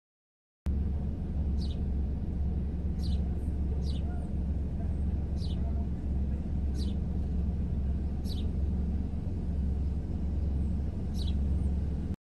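A low steady rumble that starts abruptly just under a second in, with a bird giving a short, high, falling call seven times, about once every second or so.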